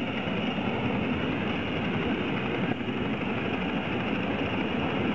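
A 3.5-inch gauge live-steam prairie tank locomotive working under steam, giving a steady hiss and rush of steam with no distinct beats.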